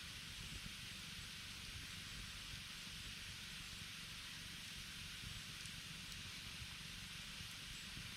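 Wood campfire burning: a faint, steady hiss with a few small crackles.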